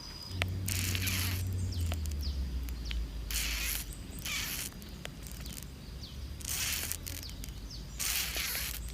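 Sago palm weevil grubs chewing inside a sago palm trunk: short scratchy rasping bursts, about five of them, each around half a second, over a low rumble.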